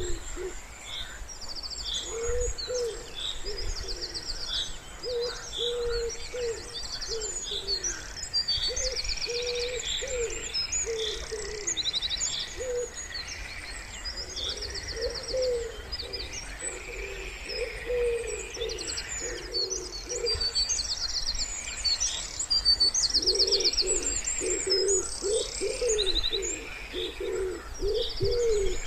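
Wood pigeons cooing in low, repeated phrases, overlapping with small songbirds singing high chirps and fast trills.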